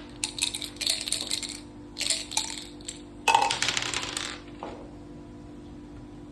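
Dice and hard game pieces clattering on a mak saka (Thai backgammon) board in three short runs of sharp clicks, the loudest about three seconds in.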